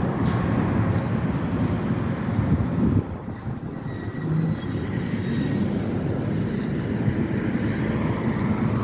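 EMD GP-series diesel switcher locomotive running while it moves a string of tank cars: a steady low rumble that drops a little in loudness about three seconds in.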